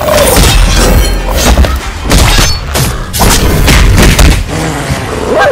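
Action-film sound effects: a rapid series of heavy booms and crashing impacts from an energy-blast explosion, over dramatic background music, easing off in the last second.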